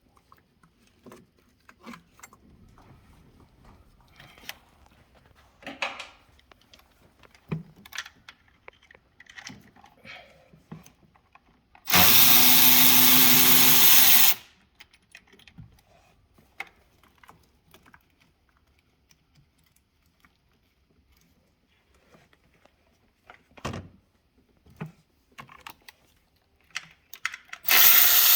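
A power tool runs in one burst of about two seconds, and a second burst starts near the end, amid scattered clinks and knocks of hand tools and parts being handled during engine work.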